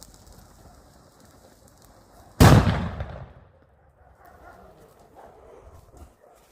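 A Tuono Gold firecracker (38 g) goes off about two and a half seconds in: one very loud bang with a rumbling tail that dies away over about a second. A faint hiss is heard before the bang.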